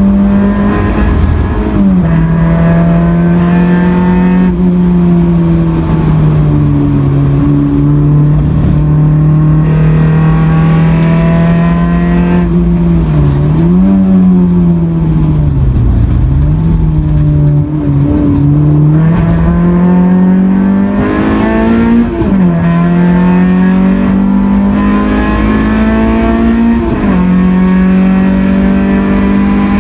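Honda Accord CB7's four-cylinder engine, heard inside the car's cabin, pulling hard on track. The revs climb steadily and fall sharply at each upshift: about two seconds in and twice in the second half. The revs also dip and recover briefly near the middle.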